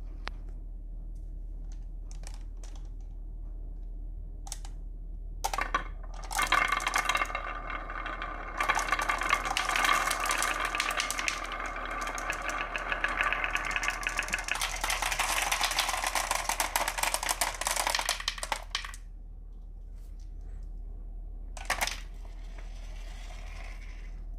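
Marbles and small wooden toy vehicles rolling down a wooden zigzag slope toy, rattling and clicking against the wooden track. A few single clicks come first, then a dense clatter of many rapid clicks builds about six seconds in and runs for about twelve seconds before stopping, with one more click near the end.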